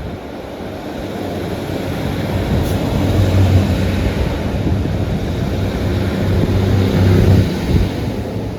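Diesel train passing close by, its engine drone growing louder over the first few seconds, holding strong, then easing off near the end.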